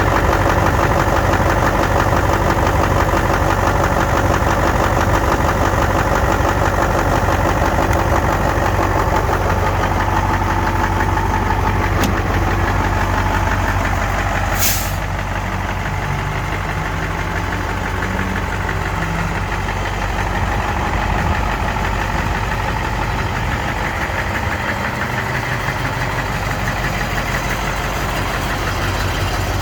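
Mercedes-Benz SK 2635 truck's diesel engine idling steadily, with a short hiss about halfway through.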